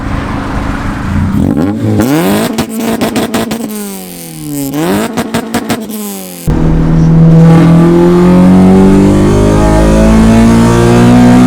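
Honda Civic Type R's K20 four-cylinder engine with an aftermarket exhaust being revved: quick rises and falls in engine pitch in the first half, then, after a sudden change about halfway, a long, loud run with the pitch slowly climbing.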